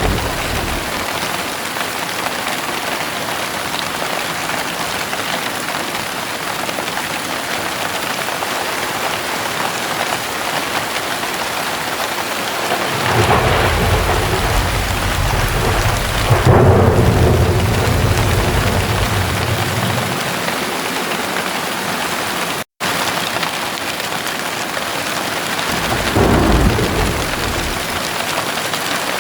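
Steady heavy rain with thunder rumbling twice: a long roll that builds about halfway through and dies away over several seconds, and a shorter one near the end. The sound drops out for an instant between the two.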